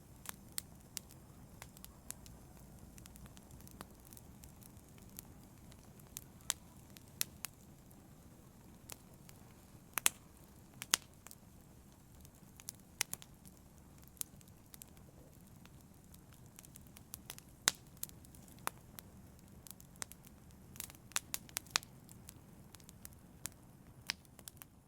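Wood fire burning in a fireplace, a low steady rumble of flames with frequent sharp, irregular crackles and pops, a few louder snaps near the middle.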